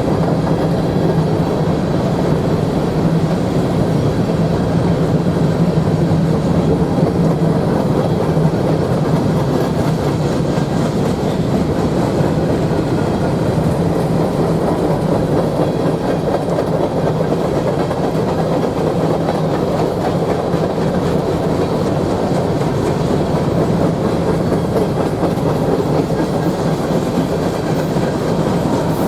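A train rolling steadily past, its cars and wheels making a continuous loud rumble on the rails.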